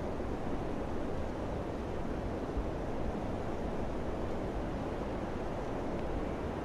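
Summer wind blowing steadily: an even, low rushing noise with no gust standing out.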